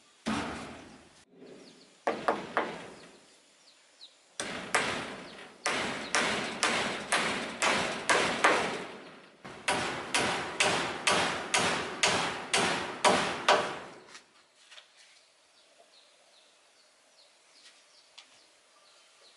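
Repeated sharp strikes of a hand tool on wood, about two a second, in a long run broken by a brief pause, stopping about 14 seconds in.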